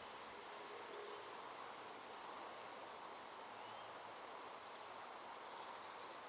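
Faint steady outdoor background noise, an even hiss, with a couple of brief faint chirps.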